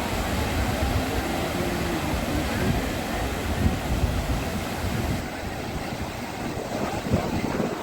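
Steady low rumble of a passenger ferry's engine, with a rushing noise of wind and water over it.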